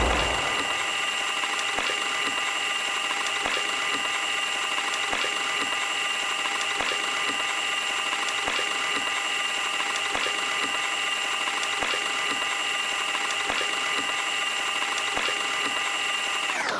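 Washing machine motor running steadily at spin speed, a constant high-pitched whine with faint regular ticks. It cuts off abruptly at the end.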